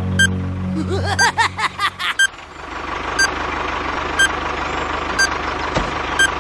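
A toy time bomb's countdown timer beeping once a second. Over the first two seconds a low held tone and a run of quick rising-and-falling whistling sweeps play, then at about two and a half seconds a steady tractor engine sound starts as the toy tractor drives in.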